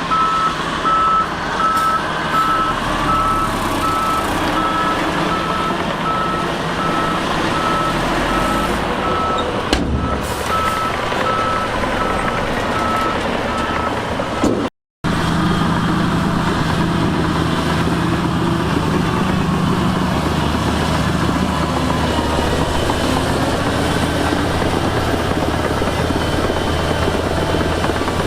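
A truck's reversing alarm beeps steadily over the running diesel engines of heavy earthmoving machinery, then stops about halfway through at a brief dropout in the audio. After that, a heavy diesel engine runs on steadily on its own.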